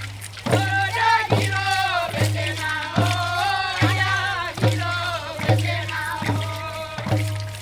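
Traditional Papua New Guinean group singing with drums, beaten in a steady beat of a little more than one stroke a second, each stroke leaving a low boom under the voices.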